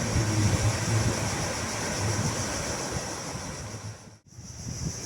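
Surf washing on a beach, with wind buffeting the microphone in an uneven low rumble. The sound drops out for a moment about four seconds in.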